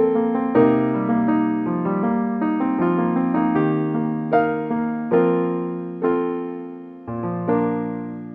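Slow, gentle piano music: single notes and chords struck about every half second to second, each ringing and fading, ending on a last chord struck near the end that dies away.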